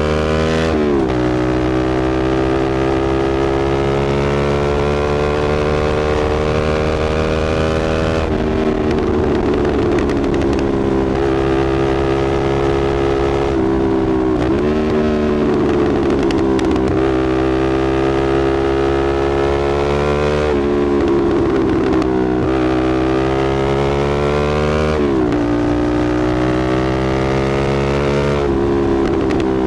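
Motorcycle engine running through an AR slip-on exhaust. Its pitch climbs slowly for several seconds, then drops sharply, about six times over.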